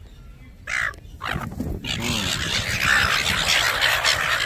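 A flock of birds squabbling over food: a couple of short single calls in the first two seconds, then from about two seconds in a loud, dense chorus of harsh squawks.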